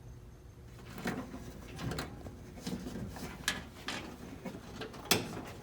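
Wiring harness being handled and fed through a grommet hole in a car body: scattered rustles and light knocks, the sharpest about five seconds in.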